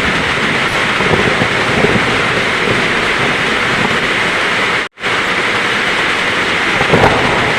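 Heavy rain pouring steadily as a dense hiss. The sound cuts out to silence for a split second about five seconds in, then resumes.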